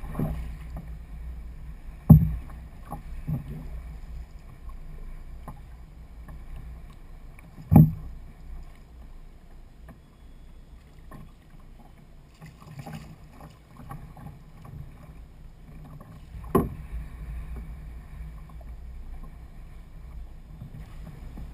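Sounds of a fishing kayak on the water: a steady low rumble of wind and water with a few sharp knocks, the loudest about two, eight and seventeen seconds in.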